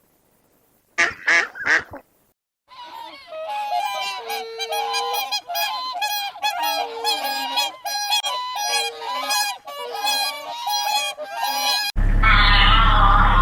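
Geese honking: three loud honks about a second in, then a flock calling continuously, many honks overlapping. Near the end it cuts abruptly to a steady low hum.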